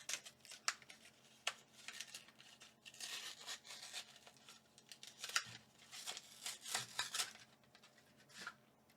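Plastic-and-cardboard blister pack of trading cards being pried and torn open by hand: crinkling plastic and tearing card, with scattered sharp clicks and two longer rustling tears, about three seconds in and again around six to seven seconds in.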